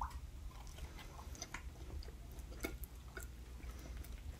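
Two people chewing mouthfuls of steak fries dipped in sauce: faint, irregular soft clicks and smacks of chewing.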